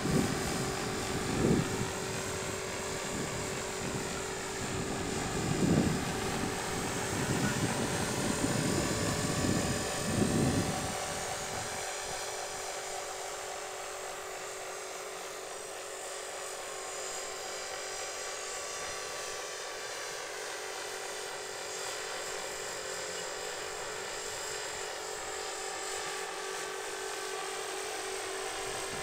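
Electric Align 450-size RC helicopter in flight, its motor and rotors giving a steady whine. Low gusts of wind buffet the microphone during the first eleven seconds or so, then ease off.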